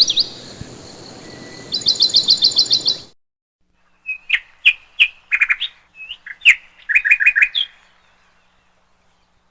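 Small birds chirping. A quick run of short, falling high chirps over a faint hiss stops abruptly about three seconds in. After a second of silence comes a second bout of sharp, lower chirps and short trills, which ends well before the end.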